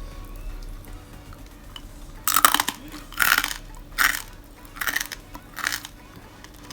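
A person chewing crunchy food close to the microphone: five loud crunching bites, about one every 0.8 s, starting about two seconds in.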